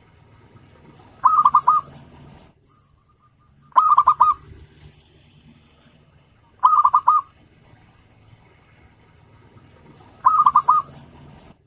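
Zebra dove cooing: four short phrases of quick, rapidly repeated coos, a few seconds apart, over a faint low hum.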